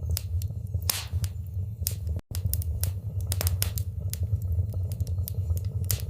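Fire in a fireplace crackling: a steady low rumble of flames with frequent sharp pops and snaps, and a very brief break in the sound a little over two seconds in.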